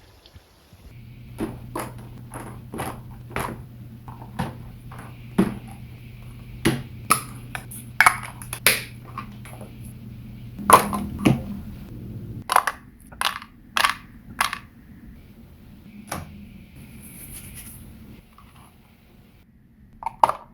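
Tennis balls being struck with rackets: a run of sharp, irregular hits, some with a short ringing ping, with a low steady hum underneath for the first half.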